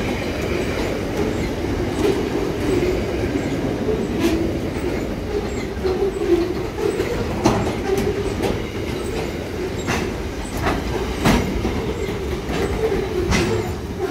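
Freight train boxcars rolling past on steel wheels: a steady rail rumble broken by sharp, irregularly spaced clacks as wheelsets cross rail joints.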